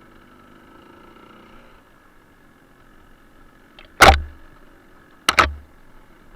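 Suzuki TS125R's single-cylinder two-stroke engine running quietly, broken by two sharp, loud knocks about four and five seconds in, the second a quick double hit.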